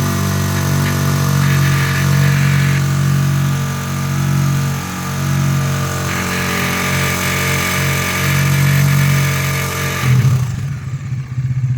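Single-cylinder engine of a Bajaj motorcycle held steadily at high revs, then dropping back about ten seconds in. The owner says it makes a light tapping at high revs once warm, which he takes for a slack cam-chain tensioner.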